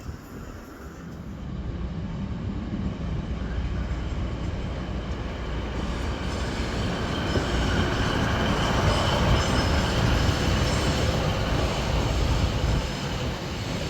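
Train running on the rails, the rumble building over the first half, with thin high-pitched wheel squeal from about six seconds in.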